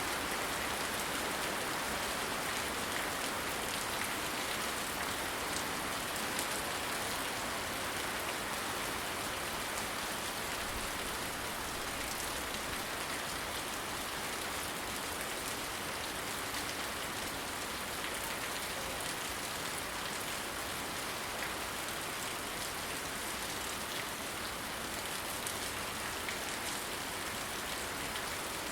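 Steady rain falling during a thunderstorm, an even hiss with scattered drop ticks and no thunder.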